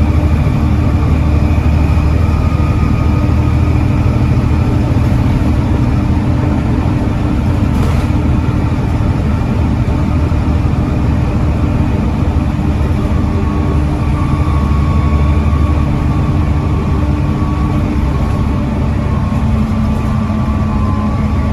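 Volvo D7C 7.3-litre inline-six diesel engine of a Volvo B7TL double-decker bus running steadily, a continuous low drone with a faint higher whine over it, its pitch shifting slightly in the second half.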